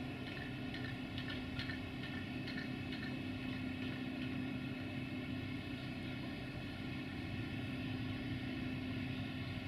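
Steady hum of train machinery, one strong steady tone with several other steady tones around it, as a train creeps slowly toward the station. A few faint high squeaks come in the first few seconds.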